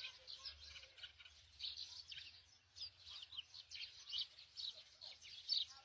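Many small birds chirping, short high notes overlapping in a steady chorus.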